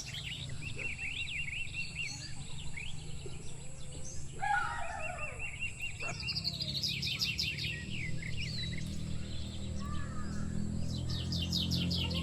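Birds singing and calling: bursts of rapid repeated trills and warbling phrases, with a harsher, lower call about four and a half seconds in, over a steady low rumble.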